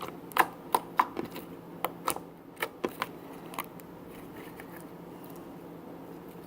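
A ball of fluffy slime being poked with fingers, giving about ten small sharp pops and clicks in the first three and a half seconds before the poking stops.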